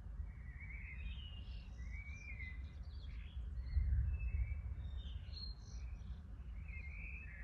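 Several birds singing with short chirps and warbled phrases, over a steady low rumble that swells briefly about four seconds in.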